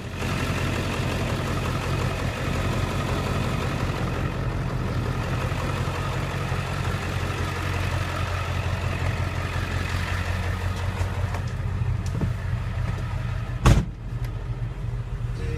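2003 Ford Econoline's 7.3-litre Power Stroke V8 turbodiesel idling steadily, with a single sharp knock near the end.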